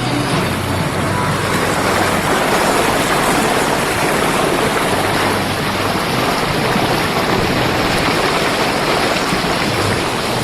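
Boat engine running with a steady low hum under a loud, even rush of water and air noise as the boat moves along.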